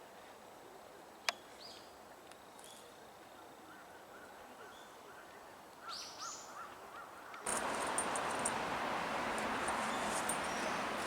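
Faint wild bird calls: a sharp click about a second in, then scattered high calls and a run of short repeated chirps. About seven seconds in, the sound switches abruptly to a loud, steady rushing noise with high ticks above it.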